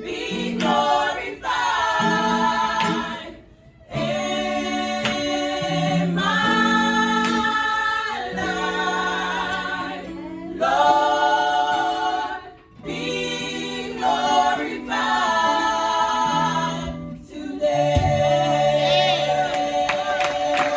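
A choir singing a gospel song in long held phrases, with short breaks between phrases.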